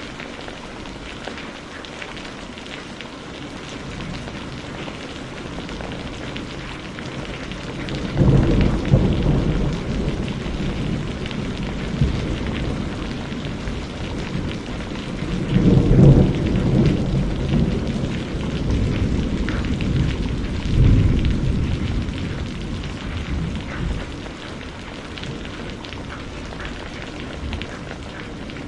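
Steady rain falling, with thunder rumbling three times, about a third of the way in, near the middle and again a few seconds later, each swelling and fading over a few seconds.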